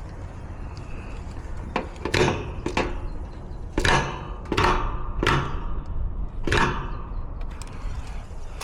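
A series of about seven knocks and clatters, as of metal parts being handled at an air-conditioning unit, over a low steady rumble.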